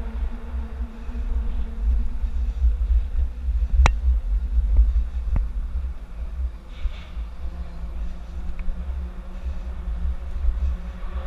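Wind buffeting the microphone of a GoPro carried on a moving bicycle, a steady low rumble that rises and falls, with two sharp clicks about four and five and a half seconds in.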